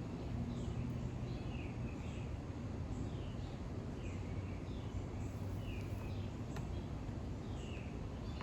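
A bird chirping repeatedly, short down-slurred chirps about once a second, over a steady low background rumble.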